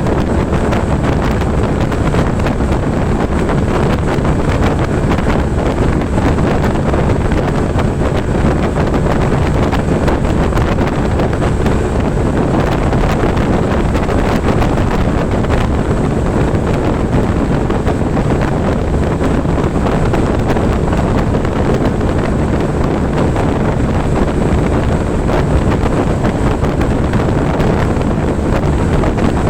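Steady, loud wind buffeting the microphone on a Honda ADV 150 scooter riding at speed, with its single-cylinder engine running under the wind noise.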